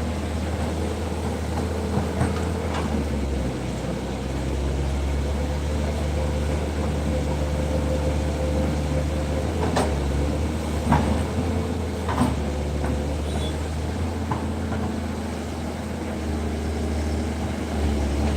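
Heavy construction machinery, an excavator and a backhoe loader, running steadily with engine pitch that shifts now and then, and a few sharp metallic knocks a couple of seconds in and again around the middle.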